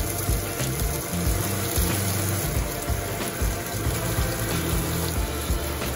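Pieces of tilapia coated in fish fry powder sizzling in hot oil in a nonstick frying pan, a steady hiss, with background music carrying low bass notes underneath.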